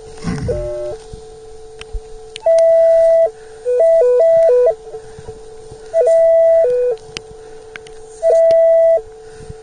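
Beach metal detector sounding its audio: a steady lower tone broken four times by loud higher-pitched tones of about half a second to a second, with some quick switches back and forth between the two pitches, the detector's signal of a buried metal target. A brief low rumble about half a second in.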